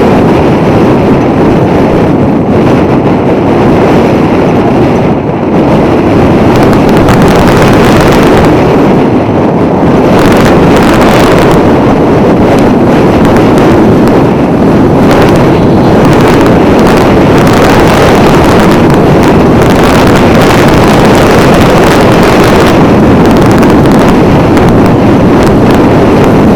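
Strong gusty wind blasting the microphone: a loud, continuous rushing with short surges throughout.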